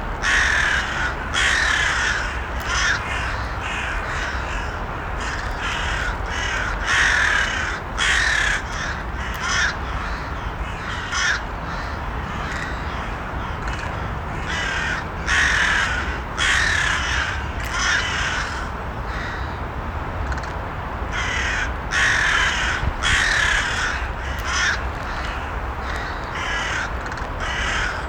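Crows cawing over and over, harsh calls following each other every second or so, over a steady low background rumble.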